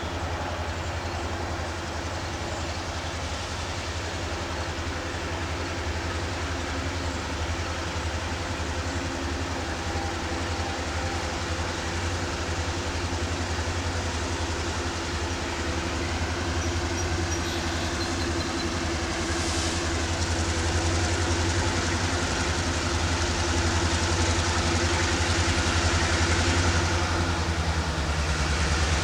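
Diesel freight locomotive engine running steadily with a deep hum, slowly growing louder.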